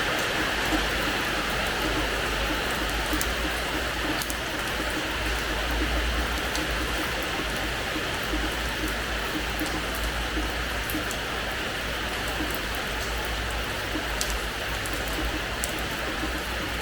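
Steady rain falling on a terrace floor, an even hiss with scattered sharper ticks of single drops.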